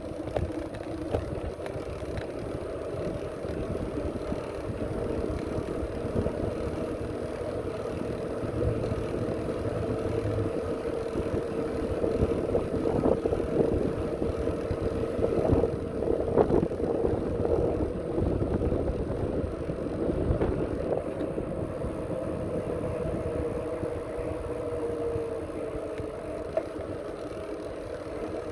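Bicycle rolling along a path: a steady rough rumble with scattered knocks and rattles, and a steady mid-pitched whine that fades out near the end.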